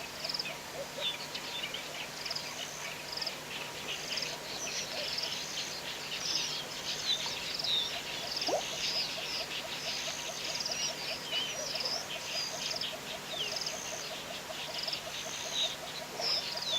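Several wild birds calling together, with many short high chirps and whistled notes repeating throughout. A fast, even run of lower notes joins in through the middle.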